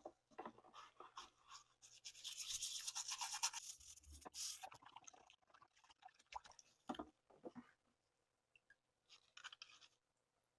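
Faint scrubbing on a pistol part for about two seconds, followed by scattered small clicks and taps from the parts being handled.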